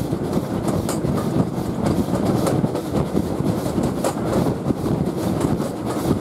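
Steam-hauled passenger train running along the line, heard from an open carriage window just behind the locomotive: a steady rumble of wheels on rail, with irregular clicks as the wheels pass over rail joints.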